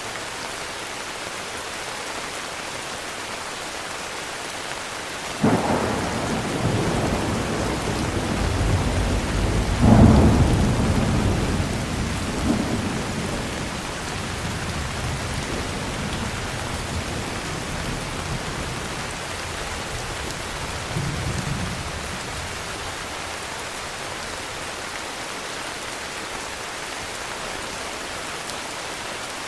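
Steady heavy rain with a thunderclap that breaks in suddenly about five seconds in, rumbles and swells to its loudest around ten seconds, then fades away. A smaller roll of thunder follows about twenty seconds in.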